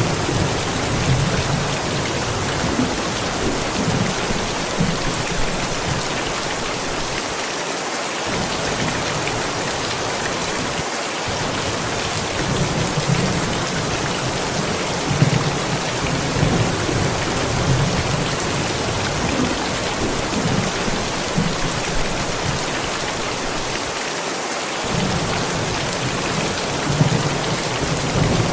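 Thunderstorm: steady rain falling, with low rolls of thunder rumbling on and off underneath.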